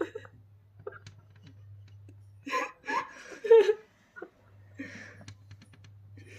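Pet parrot making short squawks and speech-like chatter in a few separate bursts, the longest run about halfway through.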